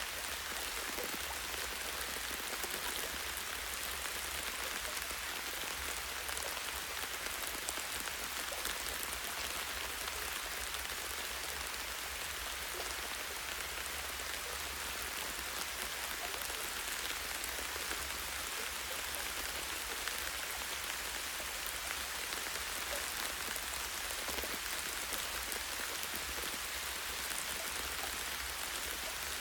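Light steady rain, drops pattering on leaves and a tree branch, with a steady low rumble underneath.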